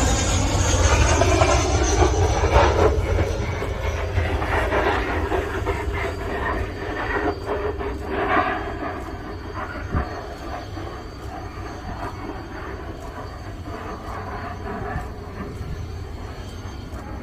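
A Su-25 twin-turbojet attack jet rumbling loudly, with a whine bending downward at the start. The noise slowly fades, and there is one sharp knock about ten seconds in.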